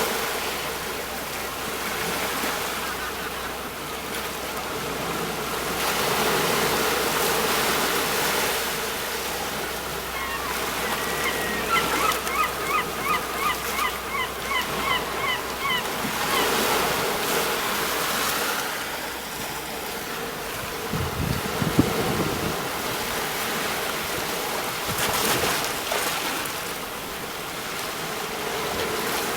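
Sea waves breaking on a shore and washing back, the surf swelling and easing every few seconds. In the middle a bird gives a quick run of repeated calls, about three a second for several seconds, and there is a short thud later on.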